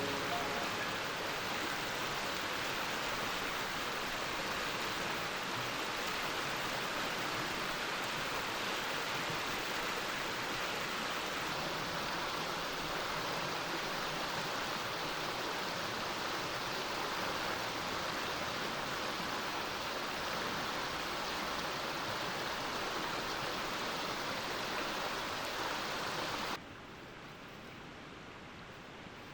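Mountain stream rushing over rocks in a steady, even rush of water. Near the end it cuts off abruptly to a much quieter background hiss.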